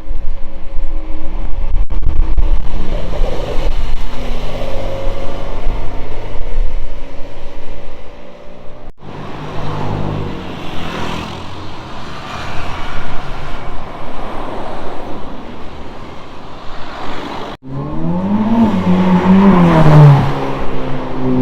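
Supercar engines running, revving and accelerating past, in several short clips joined by abrupt cuts. Near the end one engine revs up and back down.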